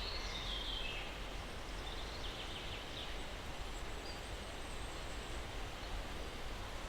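Steady breeze through pine trees, with distant birds chirping briefly in the first second and again about two to three seconds in.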